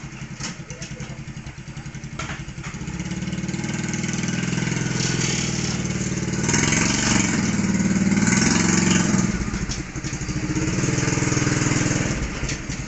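Small engine of a mini Willys MB jeep replica running and being revved. It builds gradually over the first several seconds and is loudest about seven to nine seconds in. It then drops briefly, rises again and eases off near the end.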